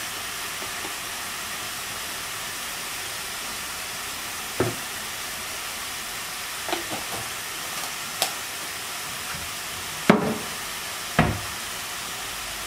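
Food frying in a pan with a steady sizzle, and a utensil knocking against the pan about five times as it is stirred.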